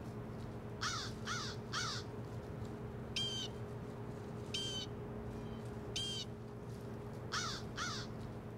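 Bird calls: a quick run of three, then three single calls about a second and a half apart, then two more, over a steady low hum.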